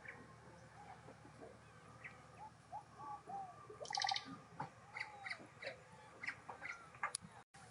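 Forest birds calling: many short chirps and whistles over a steady low background, with one louder, harsh call about four seconds in.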